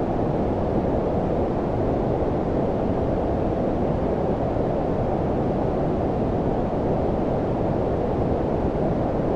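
Steady low-pitched filtered noise, brown-noise style: an even rumbling hiss concentrated below about 1 kHz, unchanging throughout.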